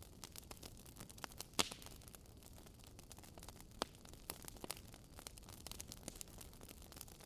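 Wood fire in a fireplace crackling: irregular sharp pops and snaps from the burning logs over a soft hiss, with a louder pop about a second and a half in.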